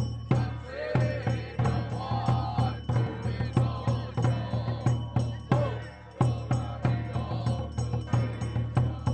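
Temple ritual chanting in a wavering voice over a steady, fast knocking percussion beat of about three strokes a second.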